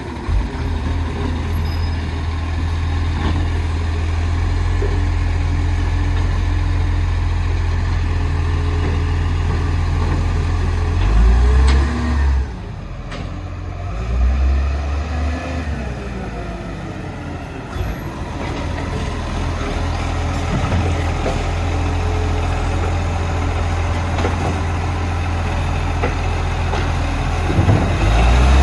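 Garbage truck's diesel engine running with a steady low drone. Its speed rises and falls around halfway through and again near the end.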